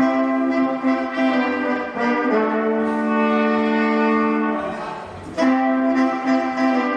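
A band's horn section playing long held chords, entering abruptly and changing chord partway through, with a short break about five seconds in before the next chord.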